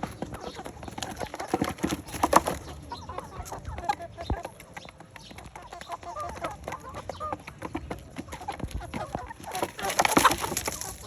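Chickens clucking in short, scattered calls, with occasional knocks and a louder noisy stretch near the end.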